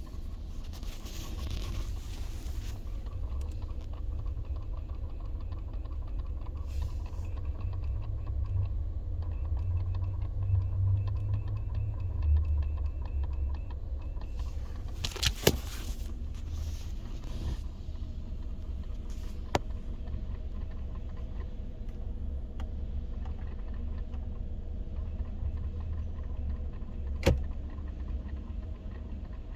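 2014 Hyundai Elantra with a steady low rumble, broken by a few sharp clicks or knocks spread several seconds apart: the strange noises the owner is recording.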